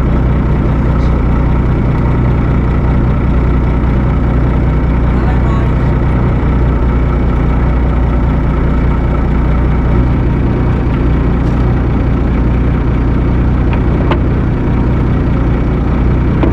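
A boat's engine running steadily with an even low drone that holds the same pitch throughout.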